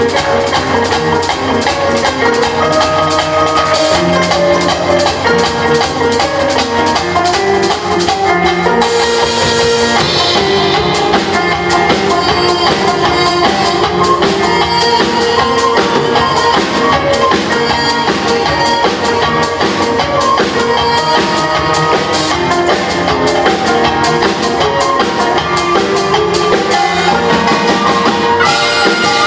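Fusion gugak ensemble playing an instrumental passage live, with drums keeping a fast, steady beat under sustained melodic lines.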